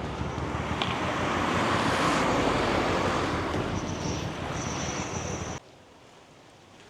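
A vehicle passing by: a rushing noise that swells to a peak and then eases, with a thin high whine near its end. It cuts off suddenly about five and a half seconds in.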